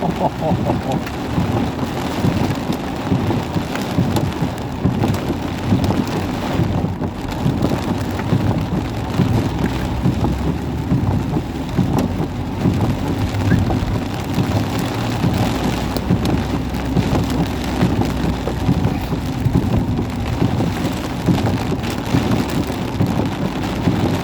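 Thunderstorm with heavy rain and wind: a loud, unbroken downpour with a constant low rumble.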